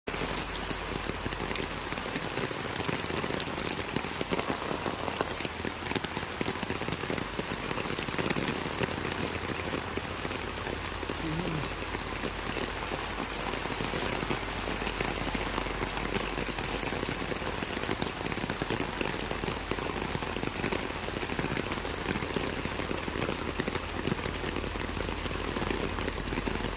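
Steady rainfall: a dense, even hiss of rain with many small, sharp drop strikes throughout.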